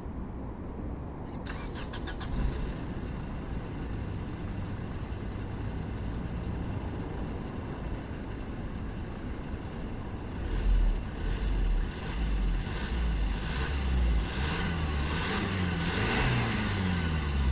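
Honda Accord 2.2 i-CTDi four-cylinder turbodiesel engine running steadily, then getting louder from about ten seconds in as it accelerates, its pitch rising and falling several times.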